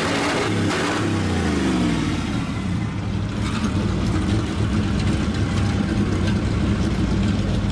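A demolition derby truck's engine running loudly. Its revs fall over the first couple of seconds, then it runs steadily.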